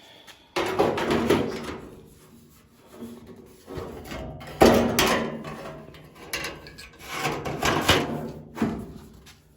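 Loose stamped sheet-metal Bronco body panel being shifted and set against the old panel: three clanking handling noises, each ringing on and fading over about a second.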